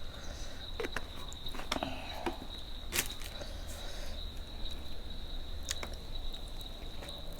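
Eating sounds close to the microphone: scattered mouth clicks and soft chewing noises, over a steady high-pitched whine that runs throughout.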